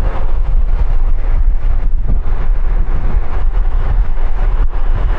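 Wind buffeting the microphone as a steady low rumble, mixed with road noise from riding at highway speed into a strong headwind.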